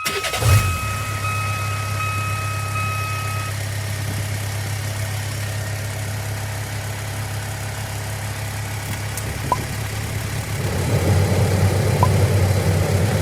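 Hino Dutro truck's diesel engine idling steadily, coming in abruptly about half a second in. A thin high steady tone sounds over it for the first few seconds, and the running gets louder and fuller near the end.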